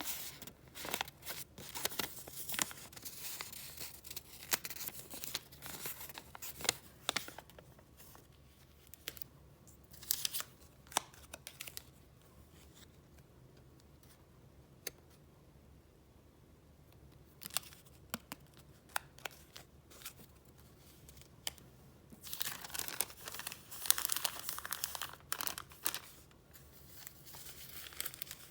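Paper and plastic being handled close up: rustling, crinkling and light crackles as sheets, papers and plastic file sleeves are picked up, slid and flipped. The handling is busy for the first several seconds, thins to scattered soft taps and ticks through the middle, and picks up again with a spell of crinkling about three-quarters of the way through.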